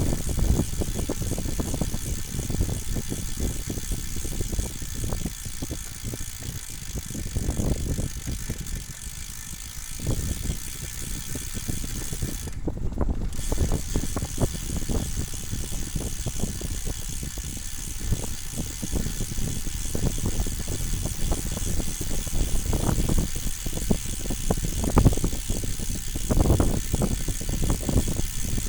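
Wind rumbling and buffeting on the microphone with a light rattle, as on a ride downhill.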